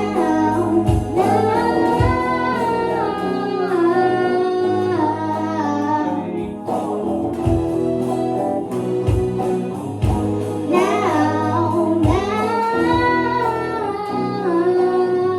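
Live school band performing a pop song: children singing long held notes over electric guitar, bass and a steady drum beat.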